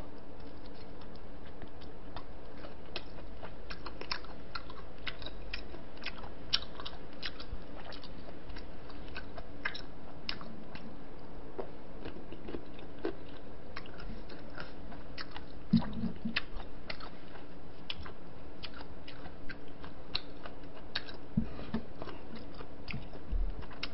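Close-miked chewing of a piece of giant octopus leg in spicy braised seafood: small wet mouth clicks and smacks scattered throughout, with a short lower sound about two-thirds of the way in.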